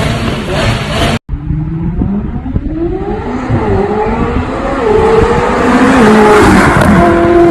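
McLaren 600LT's twin-turbo V8 accelerating hard, its pitch rising and dropping back several times as it shifts up through the gears and growing louder toward the end. Background music cuts off abruptly about a second in.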